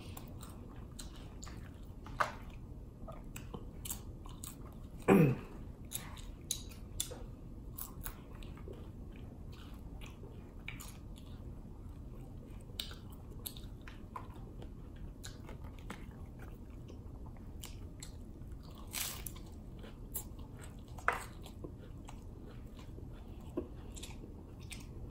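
Close-up chewing and crunching of a Taco Bell Fiery Doritos Locos taco's hard shell, a steady run of small crunches and mouth sounds. A louder sound with a falling pitch comes about five seconds in.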